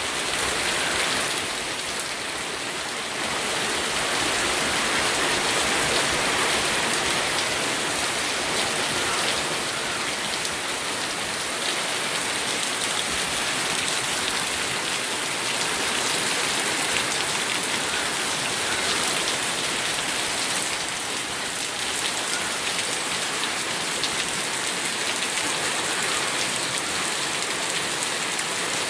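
Steady rain falling and spattering on surfaces, a dense even hiss with many fine drop impacts.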